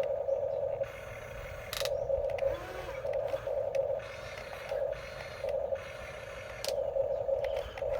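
Small electric gear motors of a remote-control construction toy whining in short start-stop bursts as it is driven. There is a sharp click twice, about two seconds in and near the end.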